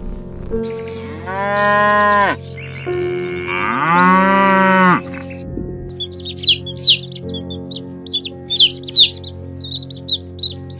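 A domestic cat meows twice, two long drawn-out meows that rise and fall in pitch. About six seconds in, ducklings start peeping in quick, high, sharp chirps.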